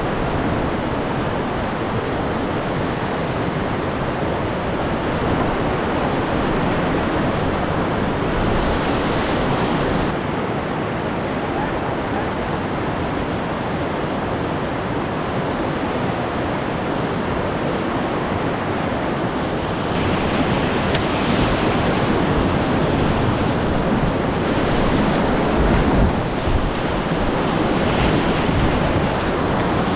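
Whitewater of the Breitach mountain river rushing steadily around a kayak, a continuous even rush that gets slightly louder about two-thirds of the way through.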